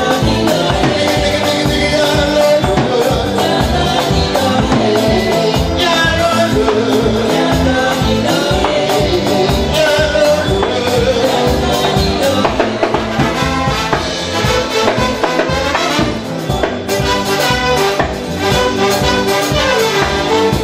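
Live band music with a steady beat, brass and a singing voice.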